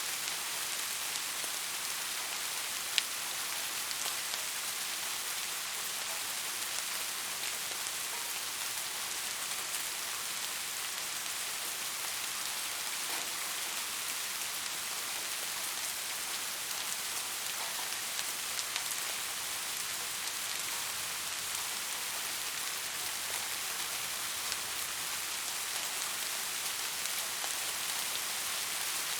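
Steady rain falling, an even hiss with scattered drop ticks and one sharper tick about three seconds in.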